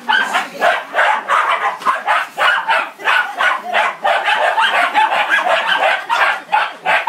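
Dog barking over and over without a break, about two barks a second.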